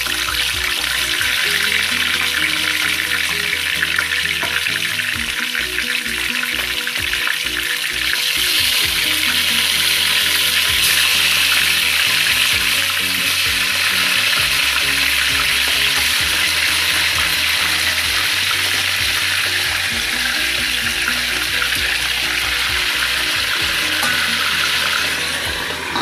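Chicken legs frying in hot oil flavoured with lemongrass: a steady, loud sizzle that grows stronger about eight seconds in. Background music with a low stepping bass line plays underneath.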